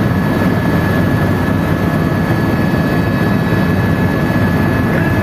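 Tour helicopter in flight: a steady, loud drone of engine and rotor, with a thin, constant high whine.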